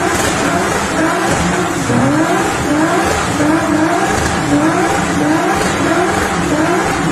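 Twin-turbo V6 of a tuned Audi S4 B5 held at high revs during a burnout, with the spinning tyres squealing. The engine note climbs in short repeated sweeps, about two a second.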